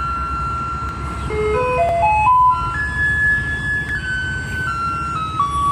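A simple electronic jingle: one clean note at a time in a plain tune, stepping down, then climbing a quick rising run and stepping down again, like an ice-cream-van chime, over a steady low rumble.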